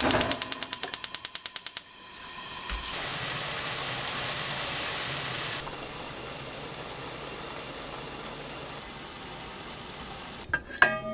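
A fast, even run of mechanical clicks, about ten a second, stopping after about two seconds. A steady hiss follows, and a couple of clinks come near the end.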